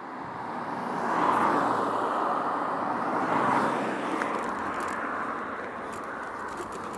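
Road traffic: cars passing on a street, the sound swelling about a second in and again around three and a half seconds, then easing off.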